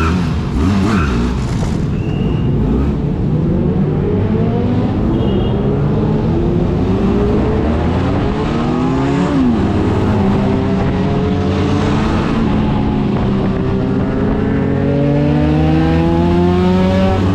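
Benelli motorcycle engine accelerating, its pitch climbing steadily, with a sharp drop about nine seconds in before it climbs again. It runs over a steady low rumble.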